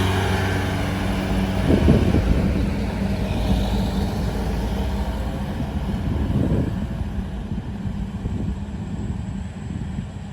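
Truck engine with an open, muffler-less exhaust running hard, a steady pitched note at first that turns rougher, with swells about 2 and 6 seconds in, then fading gradually toward the end.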